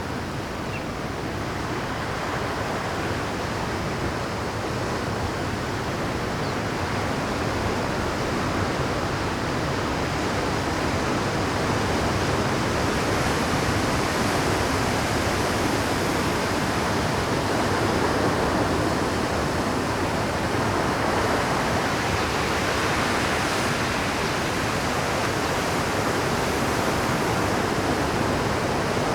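Rough Pacific surf breaking on a rocky shore at high tide: a continuous rush of crashing and washing water that grows a little louder over the first ten seconds or so, then holds steady.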